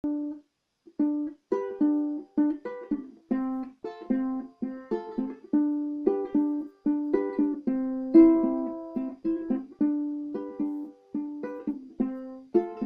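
A 23-inch sapele soprano ukulele with nylon strings playing a tune: single plucked notes and small chords ringing and dying away one after another, about two to three a second.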